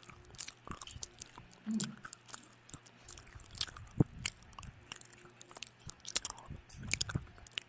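A person chewing and biting food up close, with scattered small clicks and crunches, one louder click about four seconds in.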